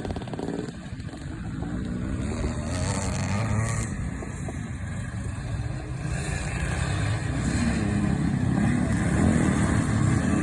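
Classic scramble motorcycles racing, engines revving up and down, growing louder over the second half.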